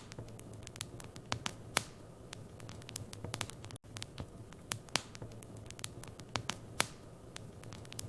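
Wood fire in a fireplace crackling, with irregular sharp pops and snaps over a low steady hum. The sound cuts out for an instant about four seconds in.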